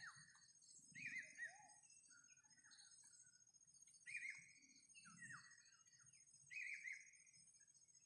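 Faint bird chirps: short calls that bend up and down in pitch, coming in small clusters about every second or two, over a steady high, shrill insect drone.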